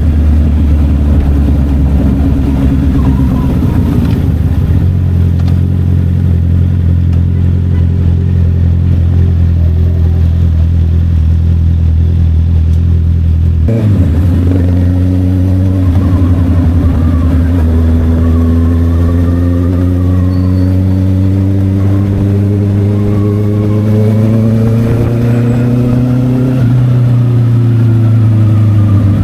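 Honda CB650R inline-four through an SC Project aftermarket exhaust, heard while riding. It holds a steady note, breaks off sharply about halfway through, then climbs steadily in pitch under acceleration for about twelve seconds before dropping back near the end.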